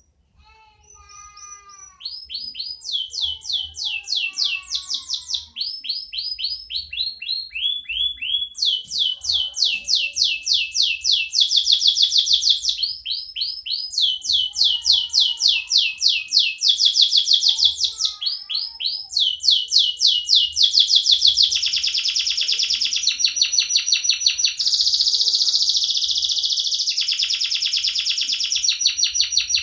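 Domestic canary singing a long continuous song: runs of quick repeated high notes, each run switching to a new phrase every second or two. The song swells in over the first couple of seconds and turns into a dense rolling trill in its second half.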